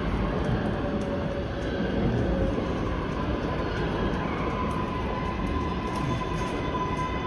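Passenger train running on its rails, a steady rumble, with a high steady tone coming in about halfway through and more high tones near the end.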